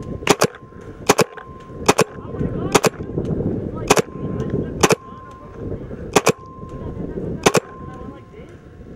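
Paintball markers firing: sharp pops, single or in quick pairs, about once a second, over a faint steady high tone.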